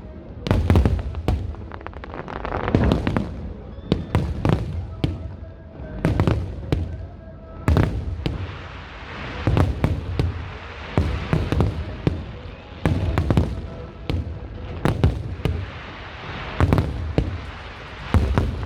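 Fireworks display: many sharp bangs from shells bursting in quick succession, with a rushing crackle between the bangs.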